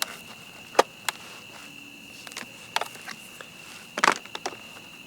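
A cricket's steady, high-pitched trill goes on throughout. Several sharp, scattered crackles cut across it, the loudest about four seconds in.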